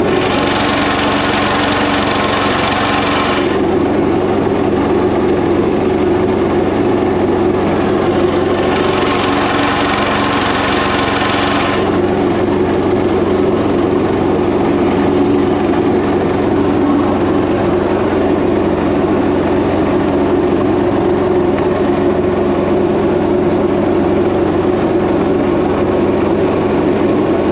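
Predator 212 single-cylinder four-stroke engine running steadily in a homemade mini jet boat. Twice, near the start and again about nine seconds in, a rushing hiss rises over the engine for about three seconds.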